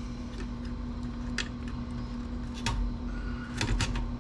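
Scattered light clicks and taps of hard computer parts being handled, with a quick cluster near the end, over a steady low hum.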